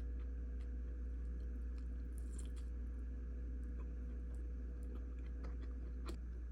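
A person biting and chewing food, with scattered brief crisp clicks, over a steady low hum.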